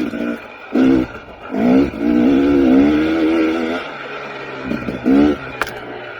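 KTM 300 XC TPI's two-stroke single-cylinder engine revving in bursts under on-off throttle. The longest burst runs from about a second and a half in to nearly four seconds, with shorter ones about a second in and near five seconds.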